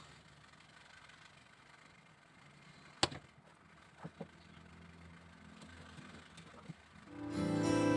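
A single sharp click about three seconds in, then two lighter ticks a second later, over faint room noise; slide-guitar music fades in near the end.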